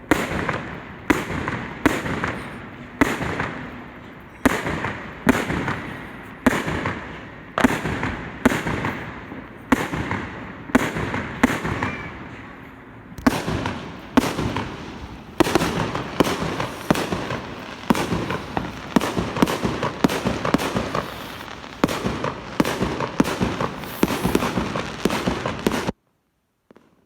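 Fireworks going off in a steady barrage: sharp bangs about one to two a second, each trailing off in an echo, with a crackling haze between them. The barrage cuts off suddenly near the end.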